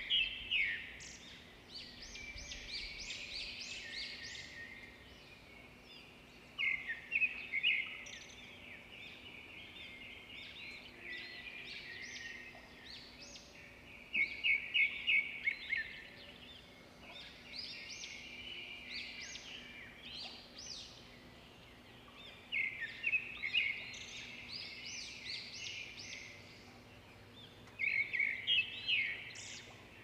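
Birdsong: quick chirps and trills, swelling into loud bursts about every seven seconds with softer chirping in between.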